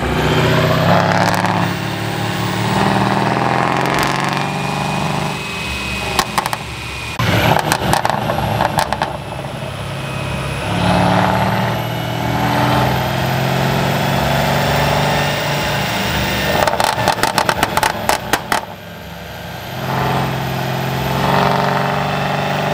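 Mercedes-Benz coupe's engine running on a mobile chassis dyno, with a faint high whine that rises over several seconds. Two spells of rapid sharp crackling ticks come about a third of the way in and again near three-quarters. The level drops briefly just after the second spell, then the engine runs on.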